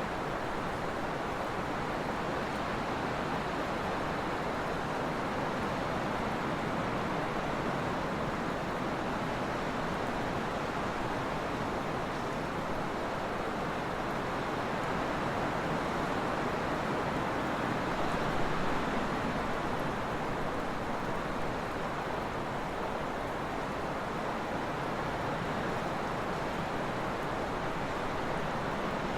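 Trade winds blowing steadily as an even rushing hiss that swells slightly about two-thirds of the way through.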